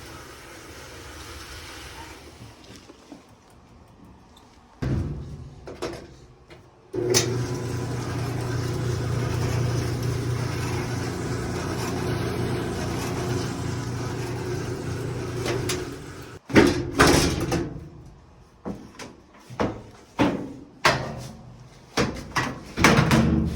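Clothes dryer running for about nine seconds with a steady low hum and drum rumble, then stopping. This is a dryer with a reported squeak whose rear drum top-hat bearing turns out worn, with too much gap. After it stops comes a series of sharp clunks and knocks as the machine is handled.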